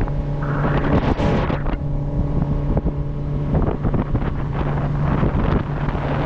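Motorboat engine running steadily underway, with water rushing past the hull and wind buffeting the microphone.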